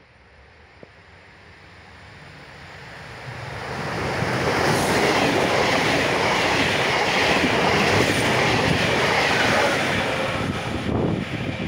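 Passenger train passing through a station at speed without stopping: the rumble of wheels on rail builds steadily as it approaches, is loud for about six seconds as the carriages rush past, then drops away near the end.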